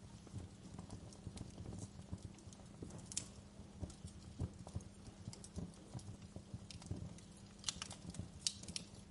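Wood fire crackling: a steady run of irregular small pops and snaps over a low rumble, with a few sharper snaps about three seconds in and near the end.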